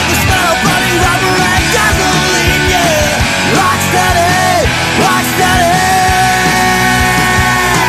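Loud hard rock music: distorted electric guitar playing a bending, sustained lead over drums and bass.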